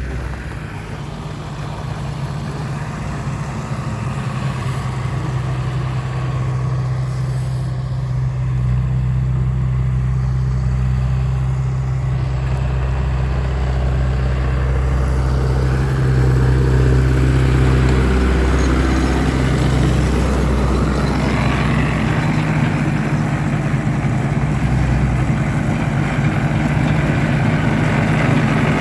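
A motor vehicle engine running steadily with a low hum, growing louder over the first several seconds and shifting slightly in pitch later on.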